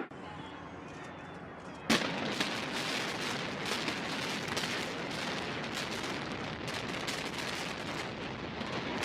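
One sharp crack about two seconds in, then a steady run of crackling and popping.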